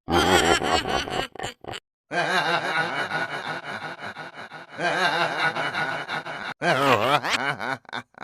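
A laughing, snickering sound effect played as several edited variations back to back, cut apart by brief silences. The last version, from about 6.6 s, has a strongly wobbling, warped pitch.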